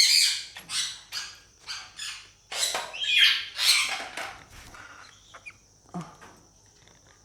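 Young parrots squawking in a run of short, harsh calls over the first four seconds or so, then only a few faint calls.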